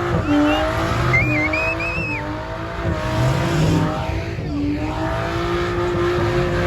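Truck engine held at high revs during a burnout, with tyres squealing on the pavement about a second in. The revs dip briefly and climb again about four seconds in.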